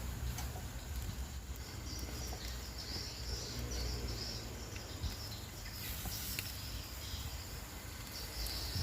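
Rural outdoor ambience: patches of high chirping from small animals come and go over a steady low rumble, with a few faint clicks.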